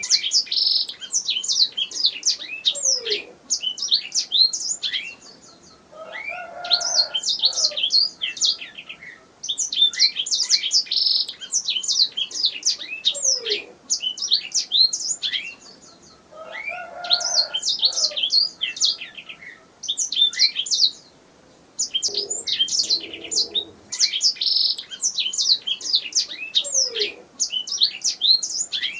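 Domestic canary singing: phrases of rapid, high chirping trills a few seconds long, broken by short pauses, with lower warbled notes mixed into some phrases.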